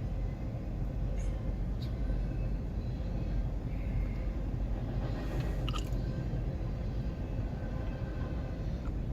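Freight train rolling past, a steady low rumble with a couple of sharp clicks.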